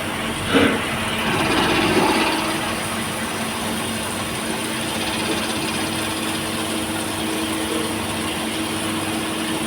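CNC lathe running with a steady machine hum over a hiss of noise, a short louder sound about half a second in.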